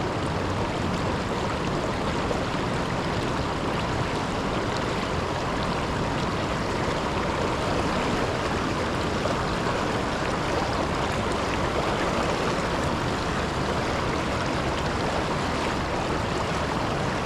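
River water rushing steadily over a low waterfall, a constant even roar with no breaks.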